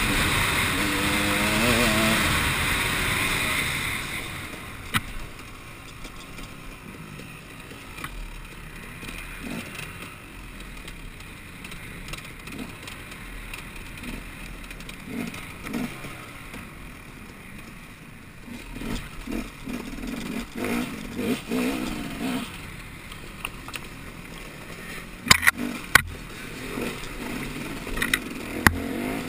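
Off-road motorcycle engine revving with a wavering pitch, then falling much quieter after about four seconds, with short throttle blips. A few sharp knocks come near the end.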